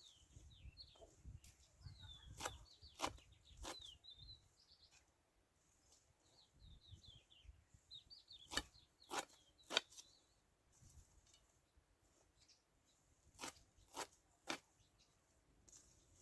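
Small birds chirping in short twittering bursts, with sharp clicks or knocks that come in three quick sets of three.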